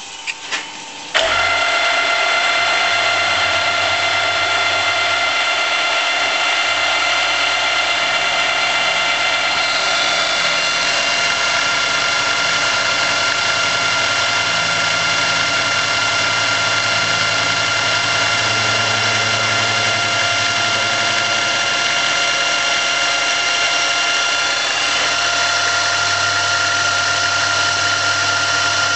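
RF45 milling machine under CNC control: a few clicks, then about a second in the spindle starts and runs steadily with a high whine of several tones while milling. A lower hum under it changes in steps several times.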